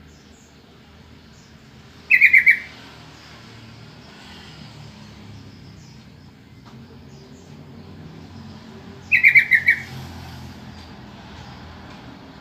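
Sooty-headed bulbul calling: a short burst of four or five quick, slightly falling notes, given twice about seven seconds apart, over a faint steady low hum.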